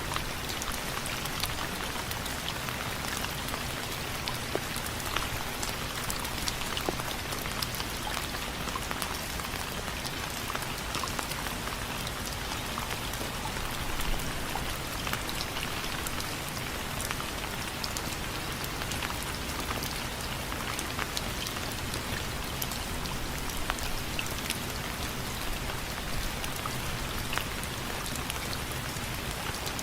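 Steady rain falling, with many distinct drops tapping sharply on window frames over an even hiss of rainfall.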